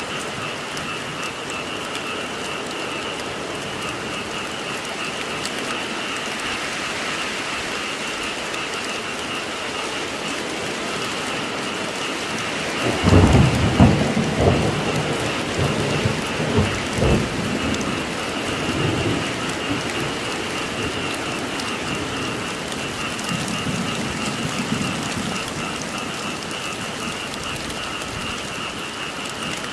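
Steady rain falling, with a frog chorus calling steadily. About halfway through, a thunderclap breaks in and rumbles for several seconds with a few sharper cracks before fading back under the rain.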